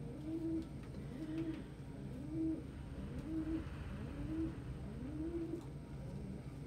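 Domestic pigeons cooing, a steady run of low coos, each rising then falling, about one a second.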